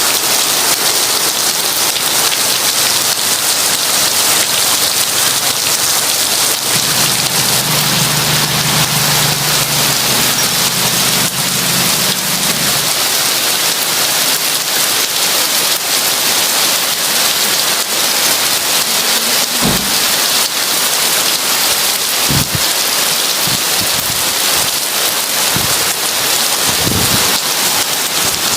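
Heavy rain falling steadily, with a low rumble of thunder starting about seven seconds in and lasting several seconds. A few short low thuds come in the last third.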